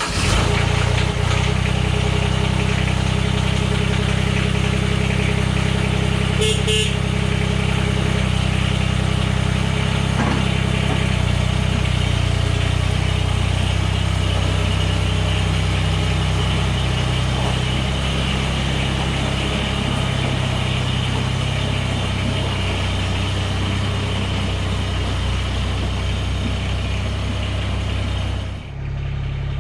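Diesel engine of a Mahindra eMax 20S compact tractor running steadily at an even speed, its note dipping briefly and shifting near the end.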